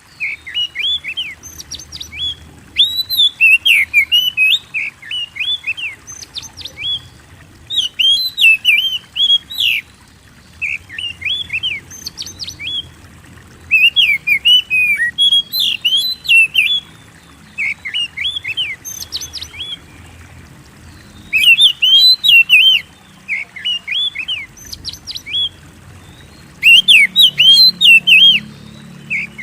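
Oriental magpie-robin (kacer) in full song: bursts of rapid, bending whistled and chattering notes, each phrase lasting a second or two with short pauses between.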